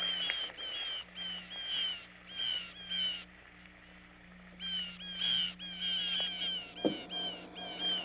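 Birds calling: many short, high, downward-slurred chirps repeating in quick succession, with a break of about a second in the middle. A steady low hum runs underneath, and there is a single brief knock about seven seconds in.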